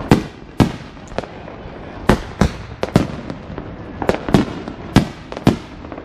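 Fireworks going off: a quick, irregular series of about a dozen sharp bangs, some in close pairs, each with a short echoing tail.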